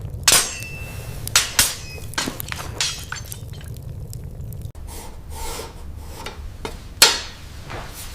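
Irregular sharp metallic clinks and knocks, metal pieces and tools striking one another, some with a short ring; the loudest come just after the start and about seven seconds in.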